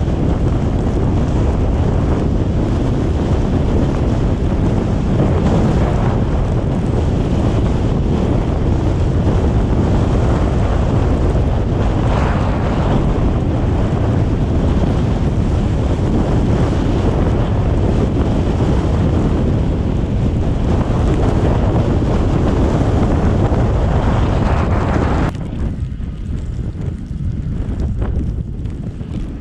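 Loud, steady rush of wind and road noise from a car driving through a snowstorm, with wind buffeting the microphone. About 25 seconds in it drops suddenly to a lower level.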